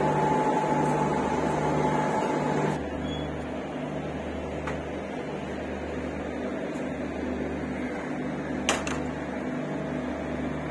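Steady low mechanical hum of a train moving slowly through a station, throbbing at a slow, even pace. A steadier, higher hum cuts off about three seconds in, and a single sharp click comes near the end.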